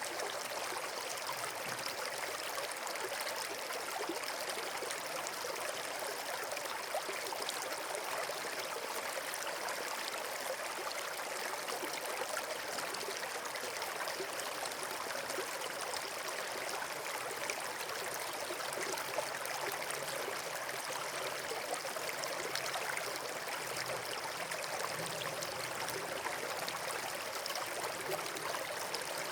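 Flowing water, a stream or small waterfall, running with a steady, even rush, flecked with faint tiny ticks.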